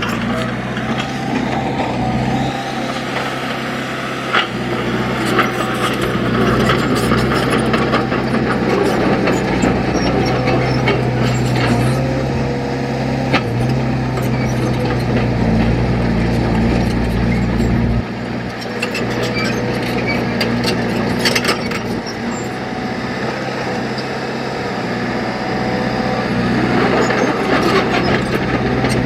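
Heavy diesel engine of earthmoving machinery running, its drone rising and dropping with changing load, with scattered clanks and knocks.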